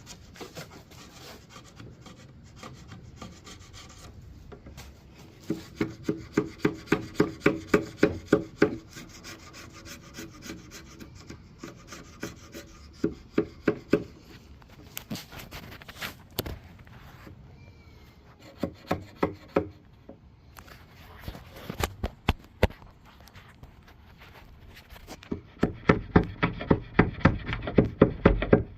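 Wood chisel scraping dried glue off a wooden tabletop: quick, rhythmic scraping strokes, about four a second, in several bursts with short pauses between them.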